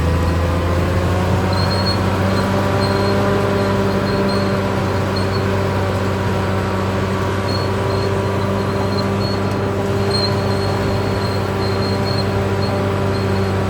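Caterpillar D6R XL bulldozer running steadily under work, its diesel engine a continuous hum, with a faint high-pitched squeak coming and going.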